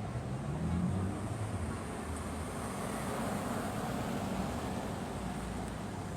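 Street traffic: a car engine rising in pitch as it accelerates during the first second and a half, then a steady rumble of passing traffic.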